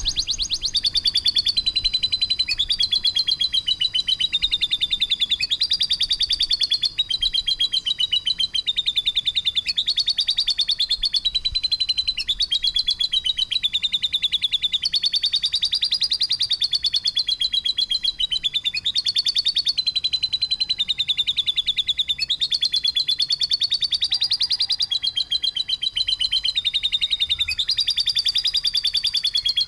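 Songbird song of rough, rapid-fire rattling trills, running without a break, in phrases that step up and down in pitch every second or two.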